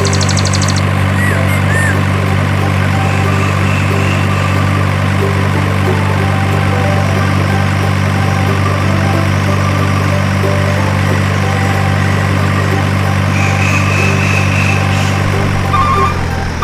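Truck engine idling steadily at an even low pitch, dying away shortly before the end.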